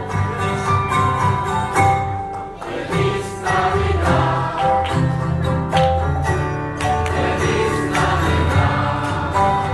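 A group of voices singing together with instrumental accompaniment and a steady bass line.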